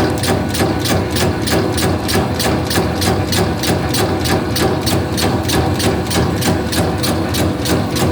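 Meatball forming machine running at speed, its mechanism clacking in a fast, even rhythm of about five strokes a second over a steady motor hum.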